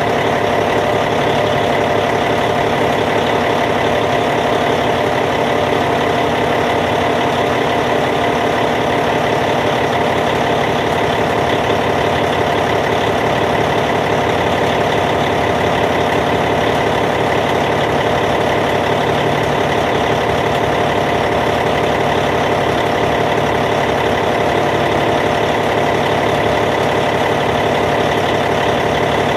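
Caterpillar C15 inline-six diesel engine of a D8T bulldozer idling steadily.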